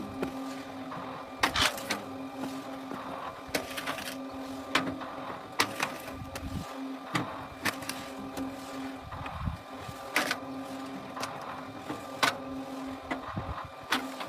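A wood-splitting machine runs with a steady hum. Sharp knocks and cracks come at irregular intervals of about a second, and the hum briefly drops out several times.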